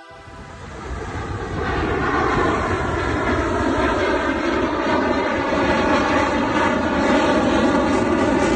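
Jet aircraft flying past, its engine roar swelling over the first couple of seconds and then holding loud and steady.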